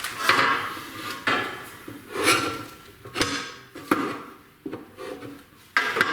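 Knocks and clanks from handling a small metal-cutting band saw and a wooden board, about one a second, some with a short metallic ring. The saw's motor is not running.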